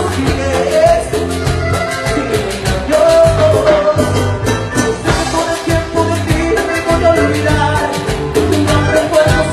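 Live band playing upbeat Latin dance music with a steady driving beat and a bending melody line over it.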